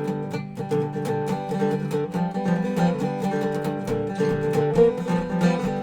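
Dobro resonator guitar being picked in a blues jam, with plucked notes ringing on over one another and a steady flow of pick attacks.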